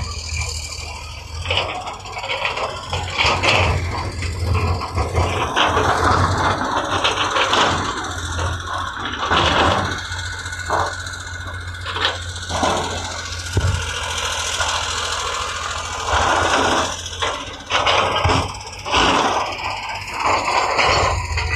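A heavy construction machine's diesel engine running steadily, with repeated clanks, knocks and scraping of the machine at work.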